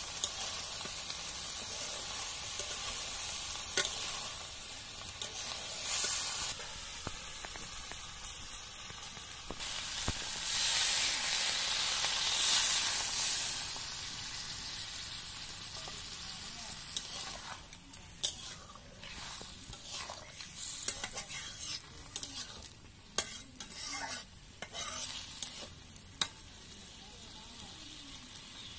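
Small river fish and brinjal pieces sizzling in oil in an iron wok while a spatula stirs them. Partway through, water is poured into the hot pan and the sizzle swells loudly, then settles into a quieter simmer broken by scattered clicks and taps.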